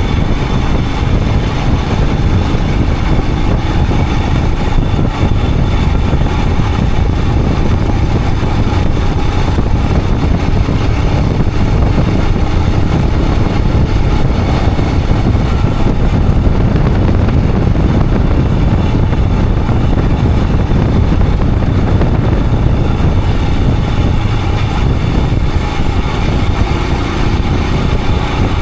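Royal Enfield Himalayan 411's single-cylinder engine running steadily as the motorcycle rides along, with a dense rush of wind and road noise.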